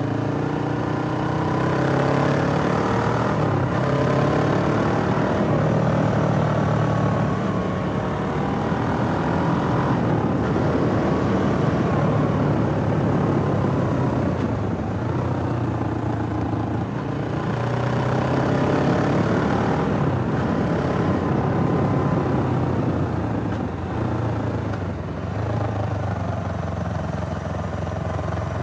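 Suzuki GS500E's air-cooled parallel-twin engine running, its revs rising and falling repeatedly in slow sweeps of a few seconds each.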